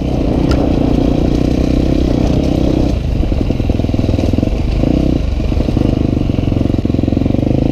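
A 250F four-stroke single-cylinder dirt bike engine running steadily under way, loud and close. For a few seconds in the middle the sound turns rough and rattly as the bike clatters over uneven ground, then it settles back to a steady note.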